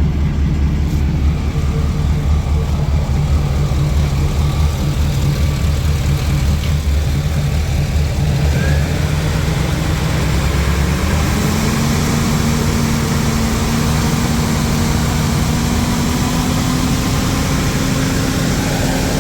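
2007 GM/Chevrolet heavy-duty 6.0L gasoline V8 idling steadily. About eleven seconds in, a higher tone joins and slowly rises.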